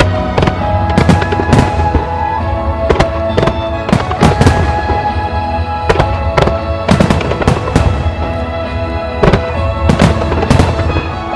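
Starmine fireworks bursting, a dozen or so sharp bangs and crackles at irregular intervals, over the music that the show is set to.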